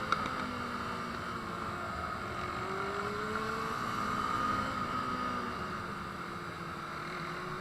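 Motorcycle riding along, its engine running steadily with slow rises and falls in pitch under a constant rush of wind and road noise; a brief click just after the start.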